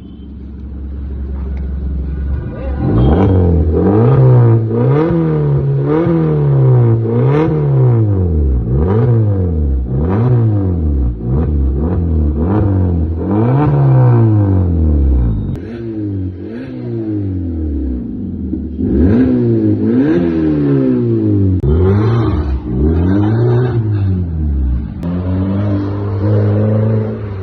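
Suzuki Swift running through an HKS cat-back exhaust, revved again and again in quick blips: the note climbs and drops about once a second after a couple of seconds of idle, then holds steadier near the end.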